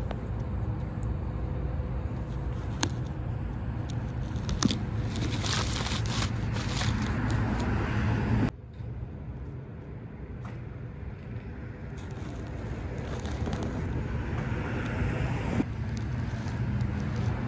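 Fire truck engine running with a steady low rumble and some rattling clicks; the sound drops abruptly about halfway through, then builds up again.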